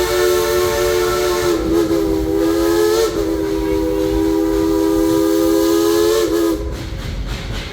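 Steam locomotive's chime whistle blowing one long blast of several tones sounding together. It dips briefly in pitch about a second and a half in and again at three seconds, then cuts off near the end, leaving the train's low running rumble.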